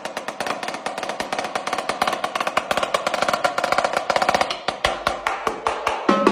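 Drum kit played freestyle: fast, dense snare strokes at many hits a second, with a few bass drum thumps in the second half.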